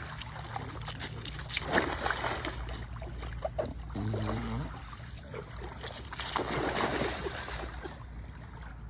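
Water splashing and sloshing in a pool, with uneven louder surges, and a brief pitched call about four seconds in.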